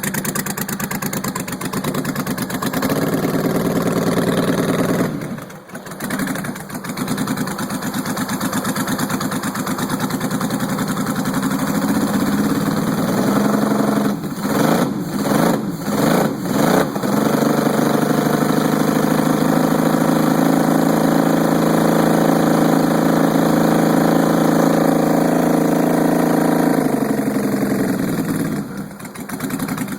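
Supercharged Honda Valkyrie's flat-six engine, fitted with Two Brothers cams and exhaust, running and being revved. Revs rise for a couple of seconds and drop back. Around the middle come a few quick throttle blips, then the revs are held up for about ten seconds before falling back to idle.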